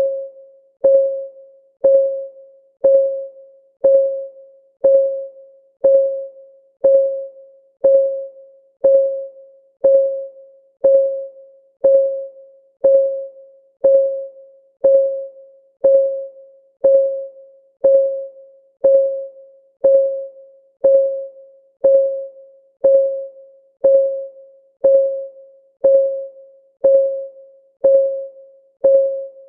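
Countdown timer's ticking sound effect: a steady tick once a second, each tick a short pitched tone that fades quickly.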